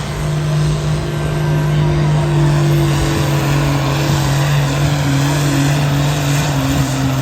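Competition pulling vehicle's engine running hard at full throttle during a pull, a loud steady drone whose pitch sags slightly over the seconds.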